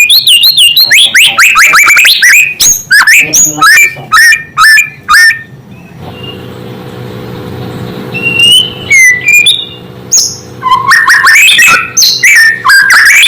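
White-rumped shama (murai batu) singing loudly in rapid, varied phrases of sweeping whistles and chirps. It pauses for about three seconds in the middle, where only a low steady hum is heard, then resumes.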